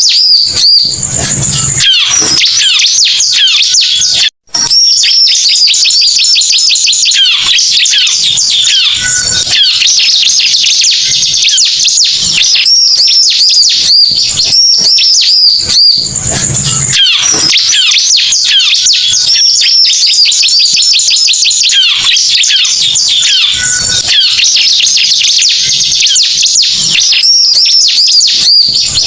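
Bar-winged prinia (ciblek) song played as a lure call: rapid, unbroken high chirping and trilling, with the same passage coming round again in a loop. There is one very brief drop-out about four seconds in.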